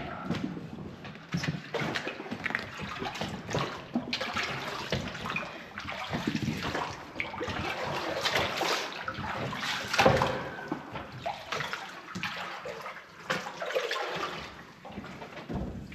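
Water sloshing and lapping, with irregular splashy surges.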